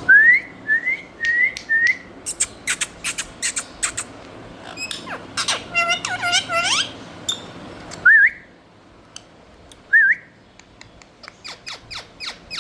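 Pet parrot whistling and chirping. Four short rising whistles open it, then comes a quick run of sharp chirps and a longer call that slides upward around the middle. Two single whistles and another rapid run of chirps follow near the end.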